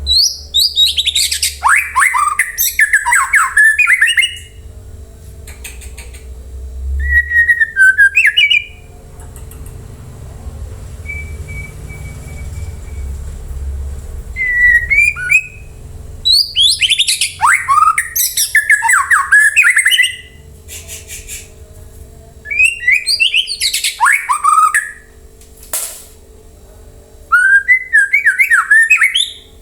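White-rumped shama (murai batu) singing in bouts of fast, varied whistles and chattering notes, about six bursts separated by pauses of a few seconds, over a low steady hum.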